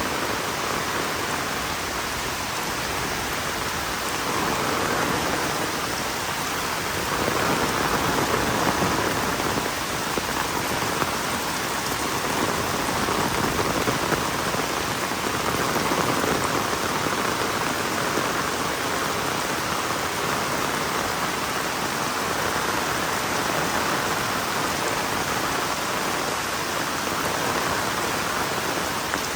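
Heavy rain falling steadily, a dense even hiss of drops that swells gently in strength a few times.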